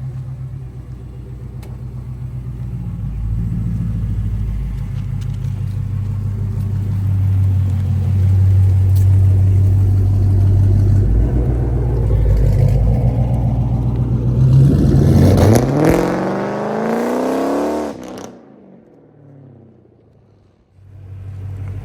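A car engine running steadily, then revving up hard with a steeply rising pitch about two-thirds of the way through. The sound then drops off suddenly to a much quieter stretch and comes back just before the end.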